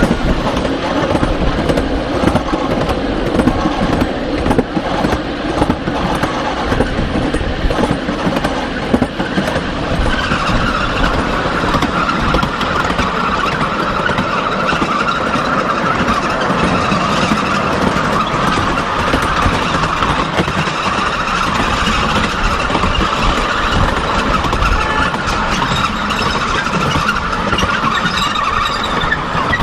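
Miniature passenger train running on its track, a steady rumble with a high, steady squeal that comes in about ten seconds in and keeps on.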